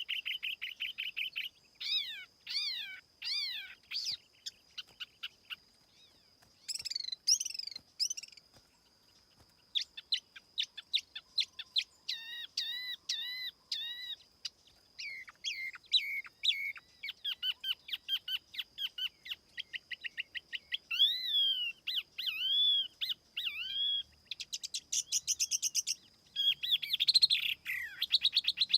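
A tiểu mi songbird singing a clean lure song. It gives varied phrases of slurred rising and falling whistles and quick runs of chirps, with short pauses between phrases.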